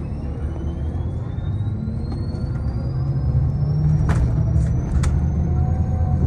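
Tour vehicle under way: a low rumble with a thin motor whine rising steadily in pitch as it speeds up, dropping back near the end. Two sharp clicks come a little past halfway.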